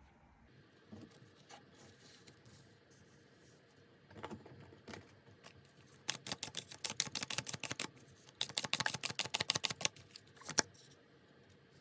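Tarot cards being shuffled and handled by hand: a few single card taps, then two runs of rapid card clicks, each about two seconds long, with a last sharp tap just after.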